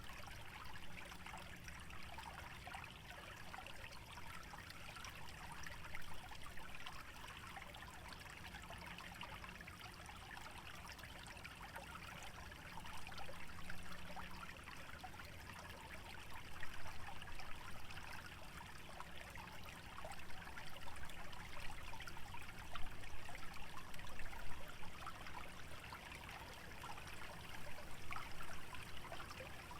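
A small stream trickling and burbling through a wetland, swelling louder now and then in the second half, with a steady low rumble underneath.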